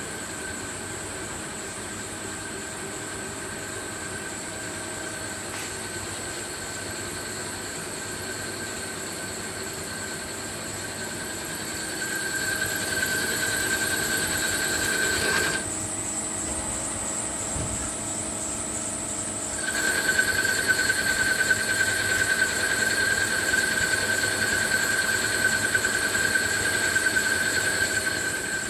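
CNC machine running its program automatically, with a steady high-pitched whine over a mechanical hum. The whine grows louder partway through, stops for about four seconds, then returns louder still.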